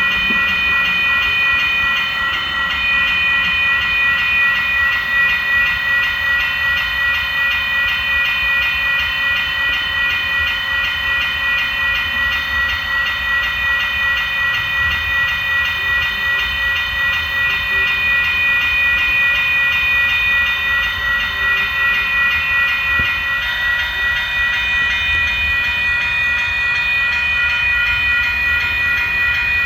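A train running past, with a steady high-pitched whine of several tones over a low rumble.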